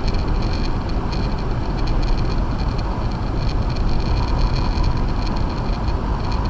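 Acura MDX on Sumitomo Ice Edge winter tires driving along a snow-covered road: a steady rumble of tire and road noise with the engine underneath.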